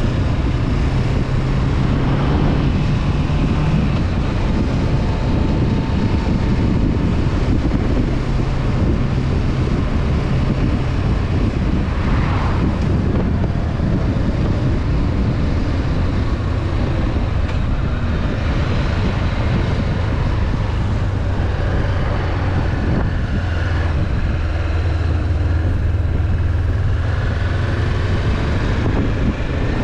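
Honda CB500F's parallel-twin engine running steadily as the motorcycle rides along, with wind rushing over the microphone. The engine note drops a little about four seconds in and then holds steady.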